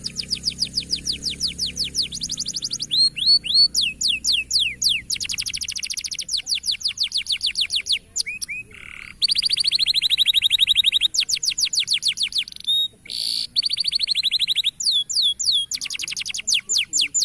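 Canary singing: rapid trills of short repeated notes, roughly a dozen a second, switching from one phrase to the next with a few brief breaks between phrases.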